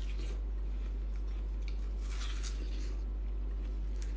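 Watermelon being bitten and chewed: soft, wet crunches every second or so, over a steady low hum.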